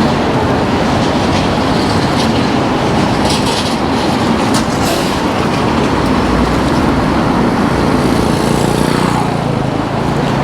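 Steady loud rush of riding noise from a moving electric bike in city traffic: wind on the mic over a low road rumble, with a few faint rattles in the middle.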